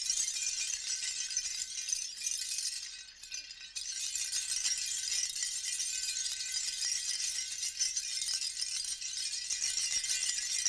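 A shaken rattle played as a prehistoric-style instrument: a dense, continuous high clattering that drops away briefly about three seconds in and then resumes.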